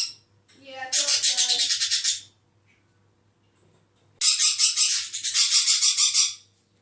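Pet parrot screeching in two bursts of rapid, harsh repeated squawks, each about two seconds long, the second starting about four seconds in. It is kicking off in agitated protest at being passed over while the budgies get their turn out.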